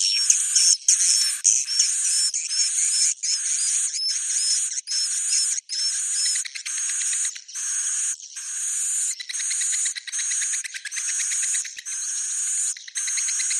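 Swiftlet roosting-call ('suara inap') lure recording: dense twittering swiftlet chirps repeating in short bursts a little under two a second, all high-pitched with no low end. It is the kind of call played in swiftlet houses to draw birds in to roost.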